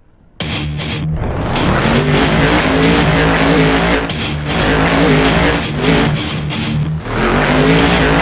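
Monster truck engine running loud and revving up and down, cutting in about half a second in.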